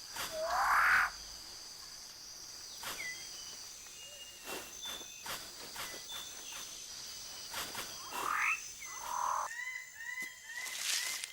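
Bird-of-paradise calls in rainforest. Two rising, swooping calls are separated by scattered short high notes and clicks, and near the end comes a rapid run of repeated two-pitched notes.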